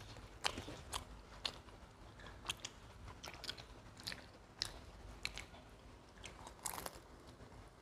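Two people chewing and biting pizza, close to the microphone: soft, irregular crunches and wet mouth clicks, with a slightly louder crunch near the end.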